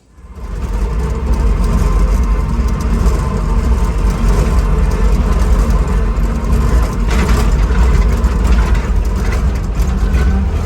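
Heavy vehicle engine running steadily with a deep, loud rumble, fading in over the first second, with a few short knocks over it.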